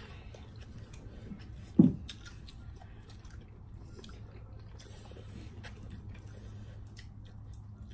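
People chewing and eating noodle soup, with faint scattered clicks and one short loud thump about two seconds in.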